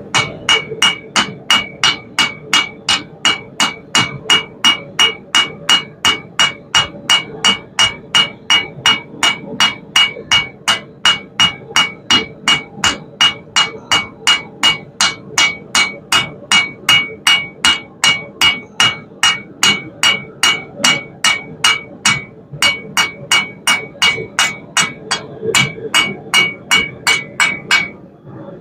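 Blacksmith's hand hammer striking hot half-inch round steel bar on an anvil, about three strikes a second, each with a bright ringing tone. The bar is being rounded back up from an octagon.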